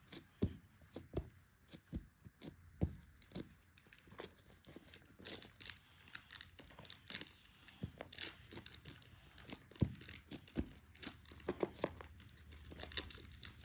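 Hands working play dough, giving irregular small clicks, crackles and squishes.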